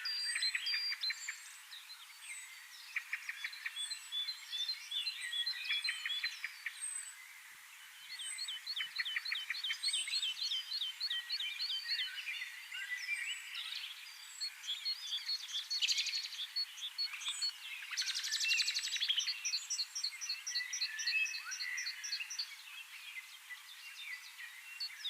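Chorus of small birds chirping and trilling at once, high-pitched, with fast runs of repeated notes that come and go.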